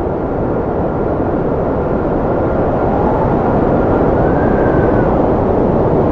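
Strong wind blowing: a deep, steady rushing that slowly grows louder, with a faint thin whistle on top that rises and falls about two-thirds of the way through.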